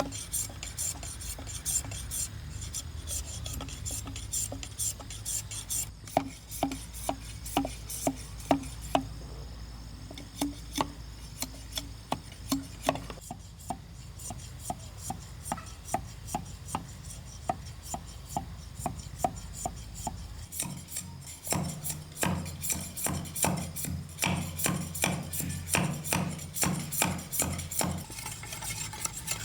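Hand-tool work on bamboo or wood: repeated scraping and tapping strokes, about one or two a second, growing denser and heavier after about two-thirds of the way through.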